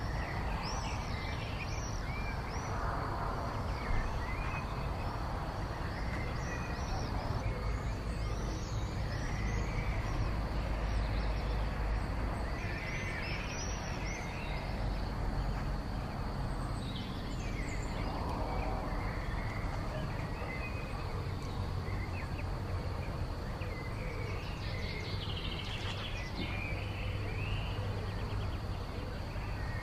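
Evening birdsong outdoors: several birds chirping and warbling throughout, over a steady high-pitched tone and a low background rumble.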